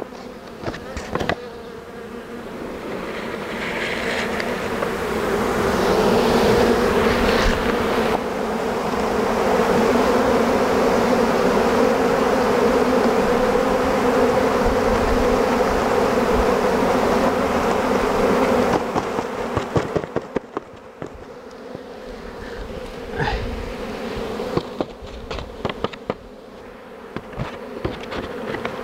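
Honey bee swarm buzzing close to the microphone: a steady hum that swells a few seconds in, stays loud, and falls off sharply about two-thirds of the way through, with a few short knocks.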